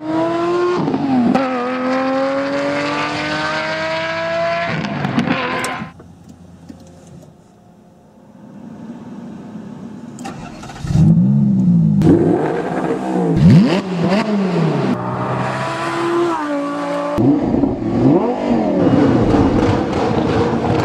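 Supercar engines in a run of edited clips: first an engine pulling hard, its pitch climbing for several seconds; after a sudden cut, a quieter stretch; then repeated sharp revs that rise and fall, carrying on after another cut near the end.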